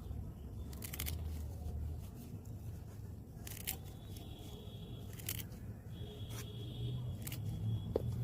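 Scissors snipping plant stems, a sharp snip about every two seconds, over a low steady rumble.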